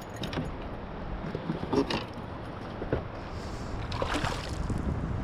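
Water sounds and light knocks from a kayak while a hooked smallmouth bass is being fought: a steady low rumble, a few short knocks, and brief splashy hissing bursts about four seconds in and near the end.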